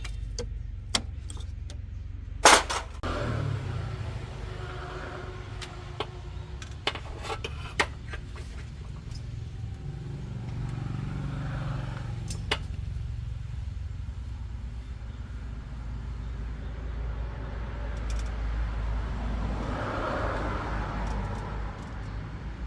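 Heavy-duty truck engine running steadily at a low hum, swelling a little twice. There is a sharp knock about two and a half seconds in and a few light clicks a few seconds later.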